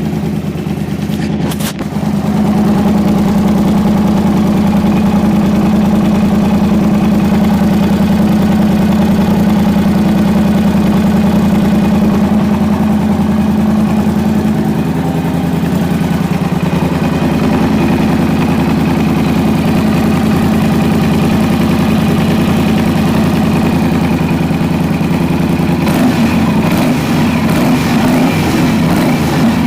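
Yamaha TDM 850's parallel-twin engine idling steadily just after being started, its idle settling slightly lower about halfway through. It is running on a newly fitted timing chain, put in to cure a timing-chain knock.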